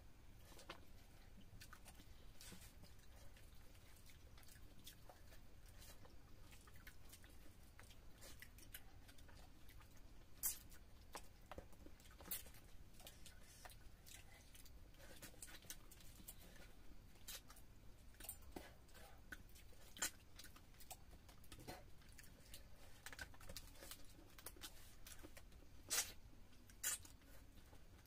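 Quiet mouth sounds of two people eating fish head curry and rice with their hands: chewing and many small sharp clicks and smacks, a few of them louder.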